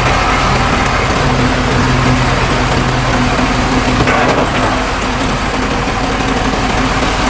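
Diesel engines of heavy earthmoving machinery running steadily, the engine note shifting about a second in. There is a brief noisy rush about four seconds in.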